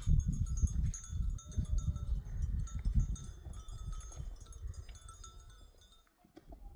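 A herd of sheep and goats moving, with small bells on the animals tinkling over a low irregular rumble, fading near the end.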